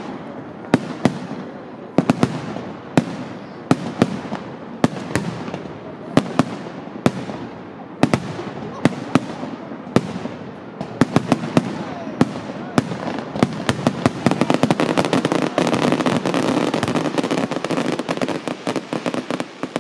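Aerial fireworks display: shell bursts bang about once a second, coming faster after about ten seconds, then from about fourteen seconds merge into a dense, unbroken barrage of rapid pops and crackle.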